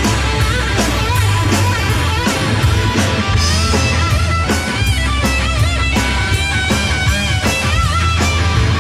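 Live rock band playing an instrumental passage: an electric guitar lead with bending, wavering notes over bass guitar and drums.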